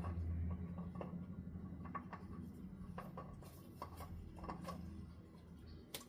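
Faint clicks, taps and rubbing as a new NAPA Gold spin-on oil filter is threaded onto its mount by hand, over a low steady hum that fades over the first few seconds.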